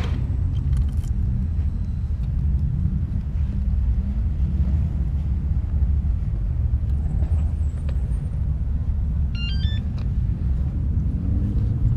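Steady low rumble of a motorcycle ride: wind and road noise over the single-cylinder engine of a Husqvarna 701 Supermoto. A short run of high chirps comes about nine and a half seconds in.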